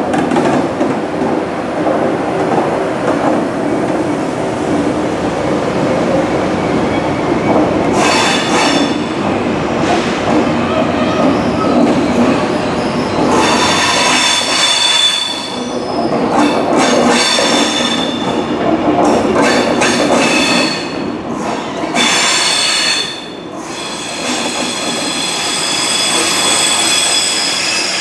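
A Thalys PBA high-speed trainset rolls slowly past on curving track with a steady rumble of wheels and cars. From about eight seconds in, its wheels squeal in repeated high-pitched bursts.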